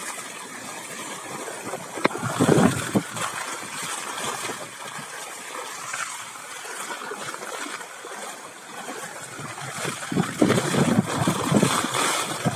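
Floodwater splashing and trickling, with two louder spells of sloshing, about two seconds in and again near ten seconds.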